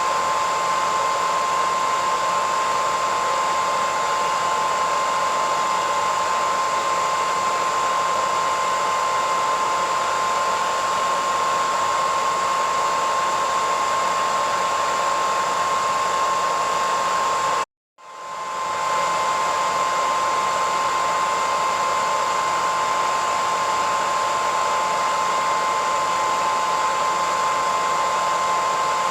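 Hair dryer running steadily: an even airflow hiss with a high motor whine on top. About two-thirds of the way through it cuts out completely for half a second, then swells straight back to full level.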